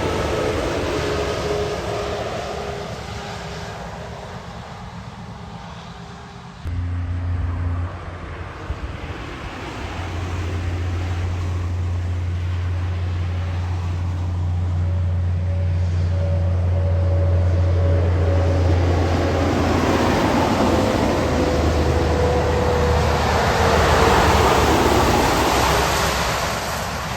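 Heavy trucks passing on a wet highway: tyre hiss on the wet road with engine drone, swelling and fading as each goes by. The first fades out early, a low steady drone starts suddenly about a quarter of the way in, and a second passing grows loudest about three-quarters through.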